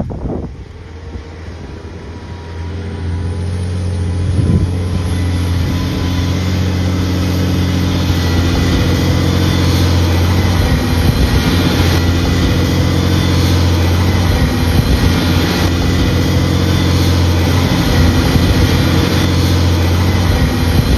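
Heavy truck engine running, growing louder over the first four seconds, then running steadily.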